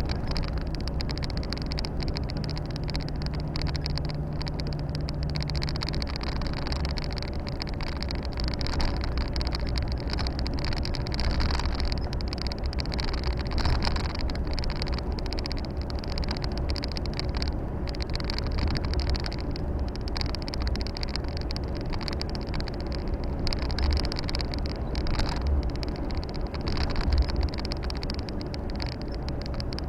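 Volvo FH 460 truck driving, heard from inside the cab: a steady low engine drone with road and tyre noise, and a low hum that fades out about six or seven seconds in.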